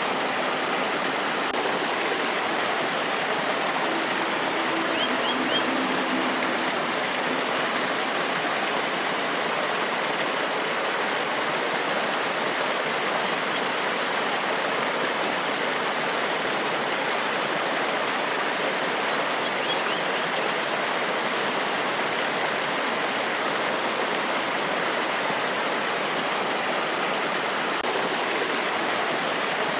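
Forest waterfall and stream water rushing over rocks in a steady, unbroken wash. A few faint, short bird chirps come through now and then.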